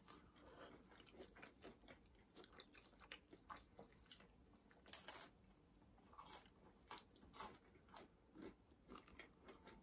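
Faint chewing and crunching of crispy mini pizzas, with irregular small bites and mouth clicks.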